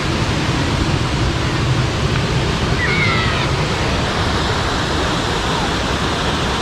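Jukankoski (Belye Mosty) waterfall rushing, a loud steady roar of falling water. A faint short chirp is heard about halfway through.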